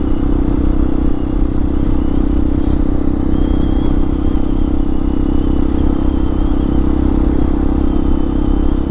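Hawk 250 dual-sport motorcycle's single-cylinder engine running at a steady speed while riding.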